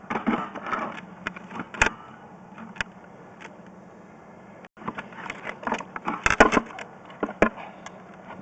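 Irregular clicks, knocks and rattles of equipment being handled, coming thicker in the second half, over a faint steady low hum.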